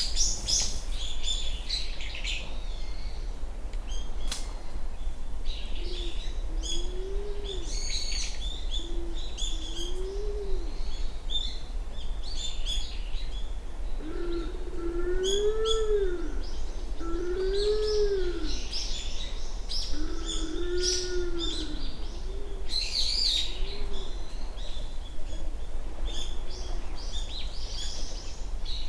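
Japanese wood pigeon cooing a slow series of low, hollow hoots, each rising and falling in pitch, loudest in the middle of the series. Small birds chirp in the background throughout.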